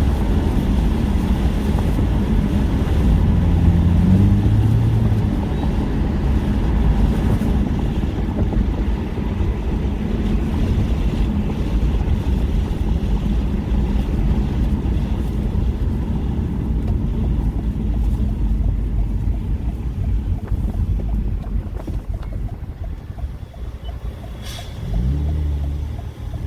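A car driving: steady low road and wind rumble heard from inside, with an engine note rising in pitch near the end as it speeds up.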